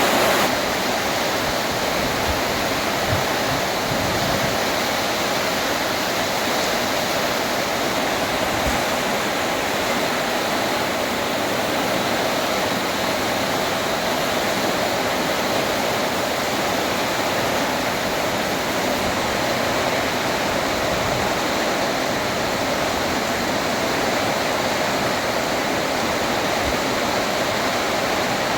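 Heavy rain pouring down steadily during a Kalbaishakhi (nor'wester) storm.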